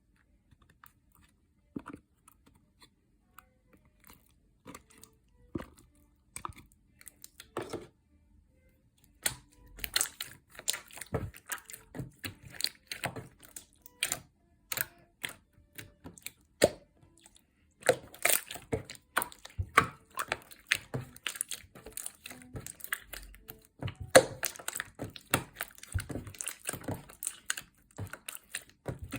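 Slime being squeezed and worked by hand, giving sharp crackling clicks and pops. They come sparsely at first, then thick and fast from about nine seconds in, with a couple of short pauses.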